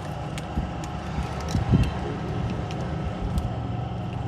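A vehicle engine running steadily with a low hum, with scattered light clicks and a short burst of louder knocks about a second and a half in.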